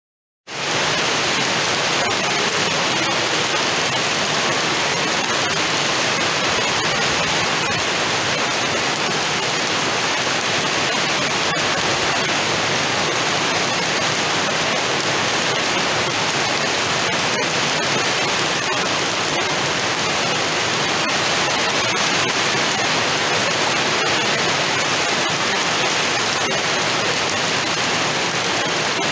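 Heavy rain falling steadily, a dense, even hiss that cuts in abruptly about half a second in.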